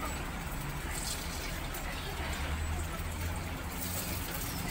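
Canned meatloaf slices sizzling in hot cooking oil in a frying pan, a steady hiss with a few small crackles, over a steady low hum.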